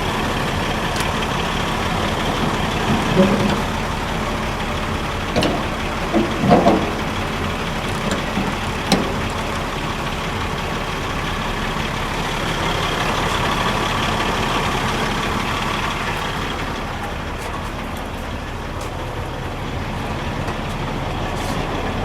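Semi-truck diesel engine idling steadily, with a few short clanks and knocks in the first nine seconds or so.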